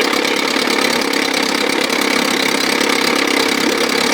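1957 Montgomery Ward Sea King 5 hp two-stroke outboard motor running steadily.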